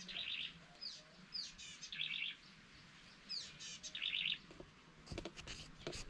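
A bird singing the same short phrase three times, about two seconds apart: a falling whistle followed by a rapid chattering trill. A few sharp knocks come near the end.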